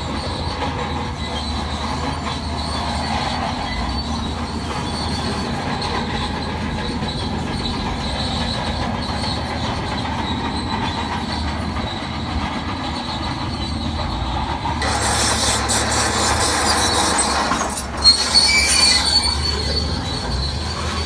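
Crawler bulldozer working, its diesel engine running under a steady squeal and clank of the steel tracks. Near the end there is a louder rushing stretch and one sharp knock.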